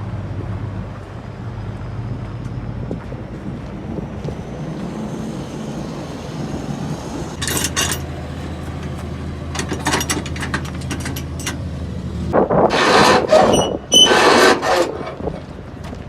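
Semi-truck diesel engines idling in a truck-stop lot, a steady low hum that sounds like cows. Toward the end a string of clicks is followed by a few loud noisy bursts.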